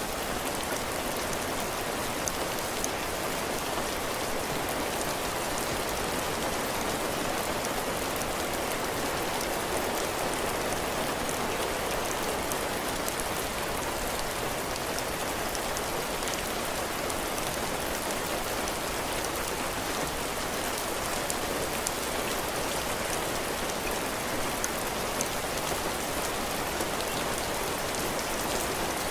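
Heavy rain falling steadily on a porch roof and the ground, an even hiss with scattered drop ticks.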